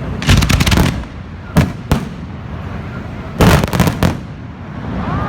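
Fireworks going off as sharp bangs. A quick cluster comes first, then two single bangs close together, then another quick cluster. People's voices rise near the end.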